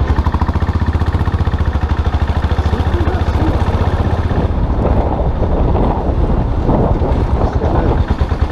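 Custom motorcycle engine running steadily under way, a dense low exhaust pulse with wind noise over it. A faint high whine sits over the engine for the first half and stops about halfway through.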